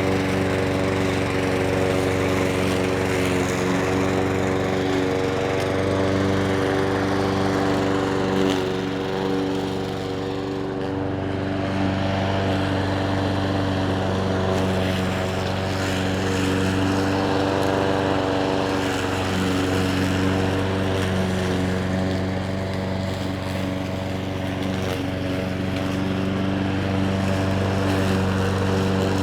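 Petrol lawn mower engine running steadily, dipping briefly in level about ten seconds in before settling again.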